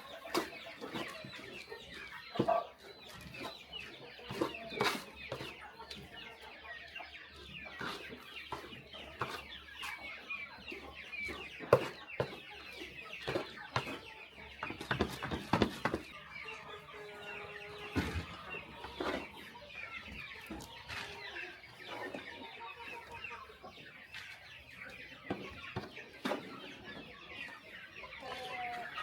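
A flock of chickens clucking and chirping, with many short, sharp taps scattered through.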